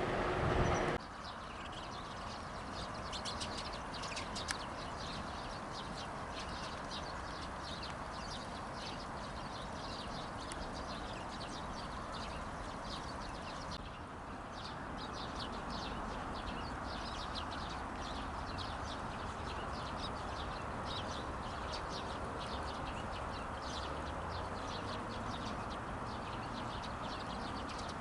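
Many small birds chirping rapidly and continuously in the background over a steady low rumble of open-air noise. A louder sound with a steady low hum cuts off abruptly about a second in.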